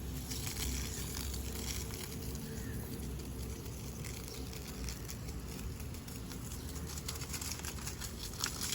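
Water from a garden hose pipe pattering and splashing steadily onto plants and soil, with a few faint clicks and a brief louder splash near the end.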